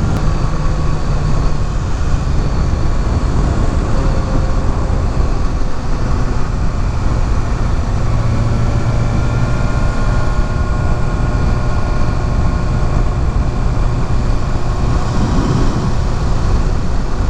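Kawasaki Ninja ZX-6R's inline-four engine running at a steady cruise under a constant rush of wind noise, with faint engine tones slowly sliding in pitch.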